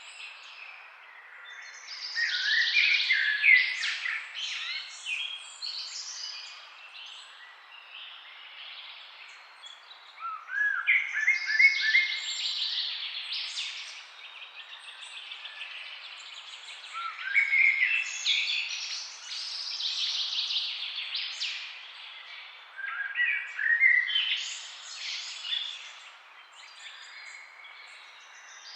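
Songbirds chirping in trees: four bursts of quick, bright song, one every six or seven seconds, each opening with a few sliding notes and breaking into rapid chatter, over a steady faint hiss.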